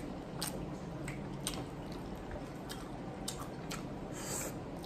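Close-up chewing and mouth sounds of people eating shrimp in sauce and rice by hand, with scattered wet clicks and smacks. About four seconds in, a brief higher hiss as a drink is sipped from a cup.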